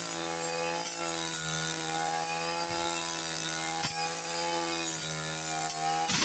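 Two-stroke brush cutter engine running steadily under light load, its pitch drifting slightly as it cuts grass. A few sharp clicks are heard, around the middle and near the end, as the cutting head strikes something.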